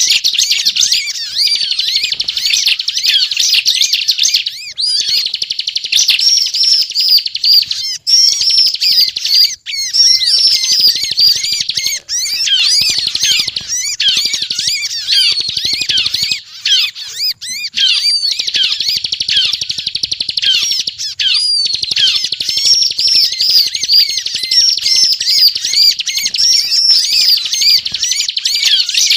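Bar-winged prinia (ciblek) singing a rapid, nearly unbroken chattering song of high chirps, the fast non-stop delivery that bird keepers call "ngebren", with a few brief breaks.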